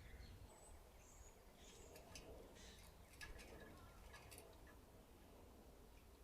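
Faint chirps and short calls from backyard birds, several scattered through the first few seconds, over a steady low background rumble.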